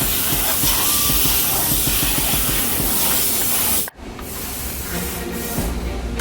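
Loud steady hiss of high-pressure water spraying at a car wash; it cuts off abruptly about four seconds in, leaving a quieter stretch with music.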